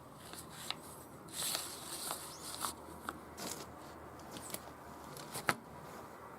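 Irregular light clicks and taps of small hard objects being handled, with a short hiss about a second and a half in and a sharper click near the end.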